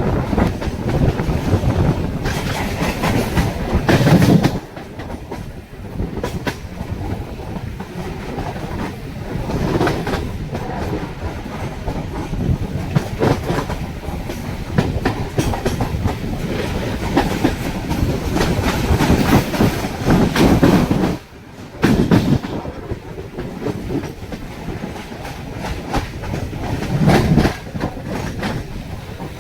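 Mumbai suburban fast local train running, its wheels clattering over the rail joints in an uneven clickety-clack. The loudness swells in surges several times and drops out briefly about two-thirds of the way through.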